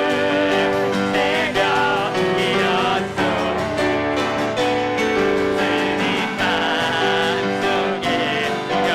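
Church praise team singing a contemporary worship song in Korean, voices over piano accompaniment.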